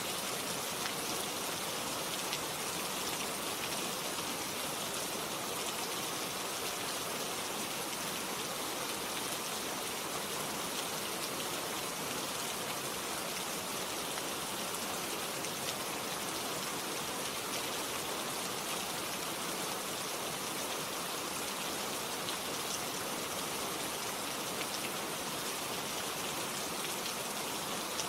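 Steady rain falling, an even hiss of many drops on a surface with no let-up.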